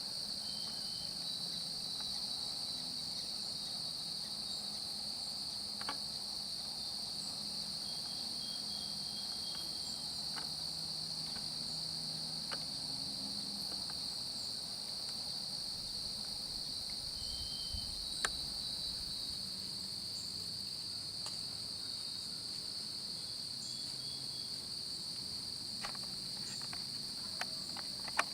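A steady, high-pitched chorus of insects droning without a break, with a few isolated faint ticks.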